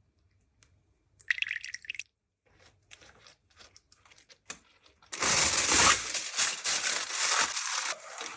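Food-prep handling noises: a short scraping sound about a second in, scattered light clicks and crinkles, then loud, dense crinkling or crunching over the last three seconds.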